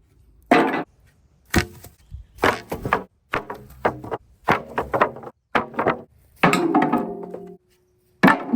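Hammer blows on broken wooden fence pieces, about a dozen irregular strikes, each with a brief ringing tail, knocking the debris apart to salvage the reusable parts.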